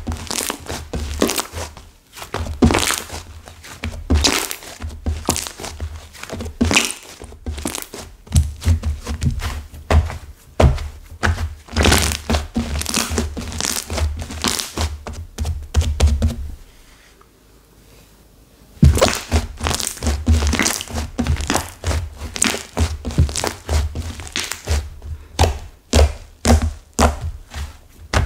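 Stiff, hardened clay-mixed slime being squeezed and pressed by hand, giving rapid crackles and dull thunks, with a short pause about two-thirds of the way through.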